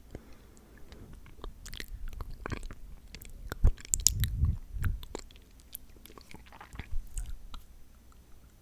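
Close-miked ASMR mouth sounds: irregular sticky, wet clicks and smacks, with one sharp loud click near the middle and a thicker, chewing-like stretch just after it.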